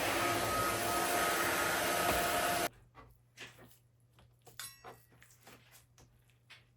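Vacuum cleaner running with a steady whooshing whine, cut off abruptly about two and a half seconds in, followed by a few faint clicks and knocks.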